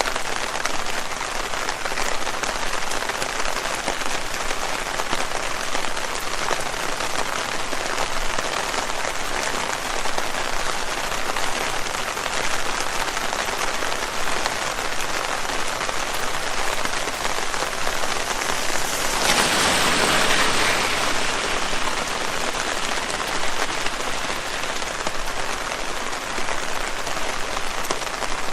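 Steady rain falling on leaves, swelling louder for about two seconds roughly two-thirds of the way through.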